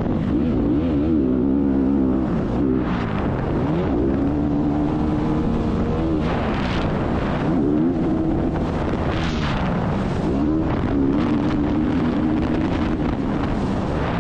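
Motocross dirt bike engine under race throttle, its pitch climbing and dropping several times as the rider accelerates, shifts and backs off.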